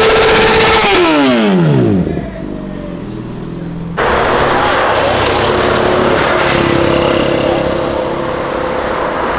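A sport motorcycle's engine is held at high revs, then the revs fall away steeply over about a second. About four seconds in, after a cut, a car's engine and exhaust run steadily as cars drive past on the street.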